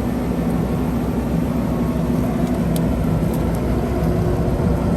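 Skid steer's engine running steadily while driving a Quick Attach "The Rage" forestry mulching head, its cutter drum spinning freely without cutting anything. An even low drone, with a couple of faint clicks about three seconds in.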